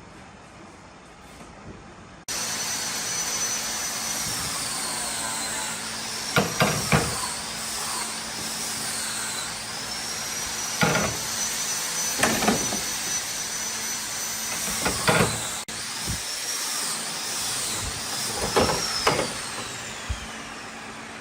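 A high-speed electric power tool starts up about two seconds in and runs with a high whine. The whine sags in pitch and recovers several times as the tool is loaded against the wood, with a few sharp knocks in between.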